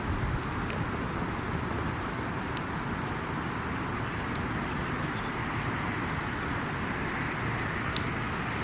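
Wood campfire crackling, with scattered sharp pops and snaps over a steady rushing background noise.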